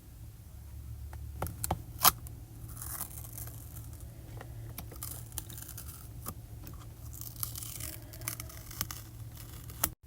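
Paper being peeled and handled close up: tearing and rustling with scraping, and scattered sharp clicks. The loudest click comes about two seconds in, and another comes just before the end.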